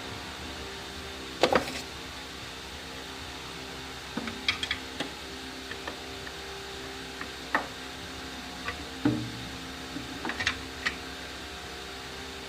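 A series of short, sharp knocks and clicks, irregularly spaced, over a steady low hum; the loudest knocks come about one and a half seconds in and again near nine seconds.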